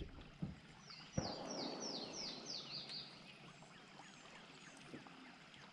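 A songbird sings a quick run of about seven down-slurred chirps. A sharp knock comes about a second in, followed by a brief soft rush of noise.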